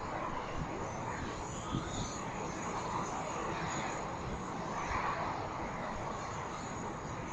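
Jet engines of a Boeing 747 freighter coming in to land, a steady rushing noise, with gusts of wind buffeting the microphone.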